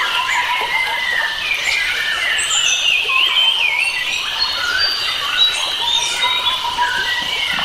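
Forest bird chorus: several birds singing at once in overlapping warbling, gliding whistled phrases, with a faint steady hiss underneath.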